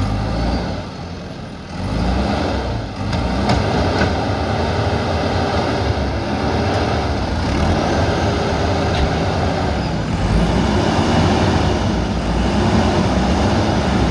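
Diesel engine of a JCB backhoe loader running steadily, growing louder about two seconds in.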